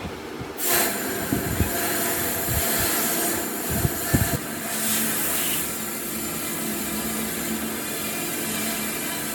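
An electric power tool switches on about half a second in and runs steadily with a broad hiss and a faint hum.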